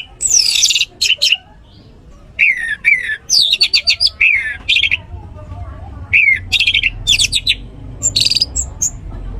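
Orange-headed thrush (anis merah) singing a run of short, varied phrases: quick downslurred whistles and rapid, high, buzzy chattering trills, separated by brief pauses. A low hum comes in under the song about halfway through.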